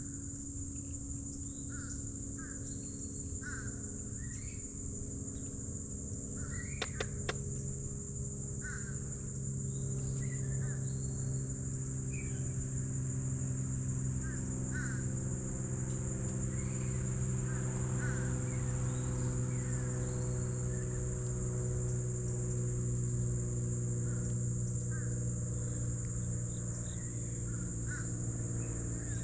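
A steady high-pitched insect trill from crickets, with short bird chirps scattered throughout. Underneath runs a low steady mechanical hum that grows louder about ten seconds in, and there are two sharp clicks about seven seconds in.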